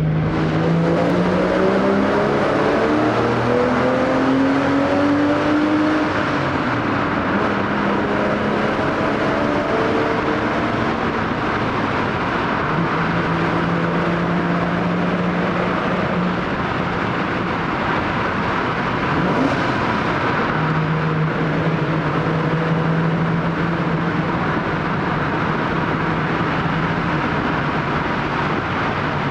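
Porsche Boxster 986's 2.7-litre flat-six running through an ARQRAY aftermarket exhaust as the open-top car drives through a tunnel, the sound echoing off the walls. The engine note rises steadily as the car accelerates for the first several seconds, then settles into a steady cruise with small changes in pitch over road and wind noise.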